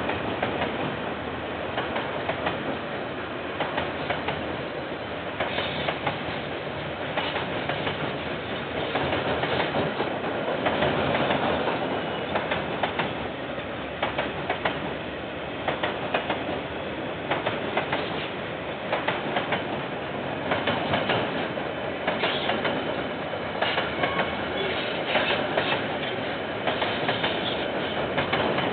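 Container freight train's wagons rolling past, a steady rumble of steel wheels on the rail with clusters of clickety-clack as the wheels cross the rail joints, recurring every second or two.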